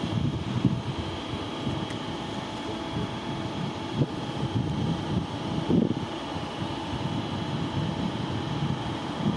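Train running by: a steady mechanical hum with faint high whining tones over an uneven low rumble and knocks.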